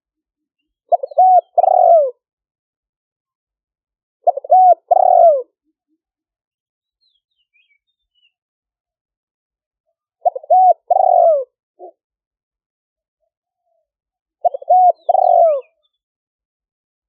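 Spotted dove cooing: four short phrases of two or three notes each, a few seconds apart.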